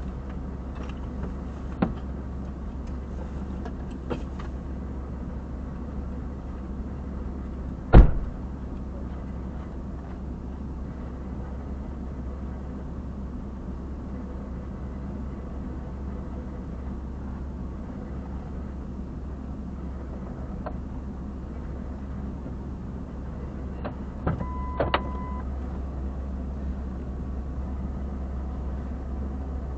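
Steady low hum of an idling car engine heard inside the parked car, with one sharp knock about eight seconds in and a short electronic beep near the end.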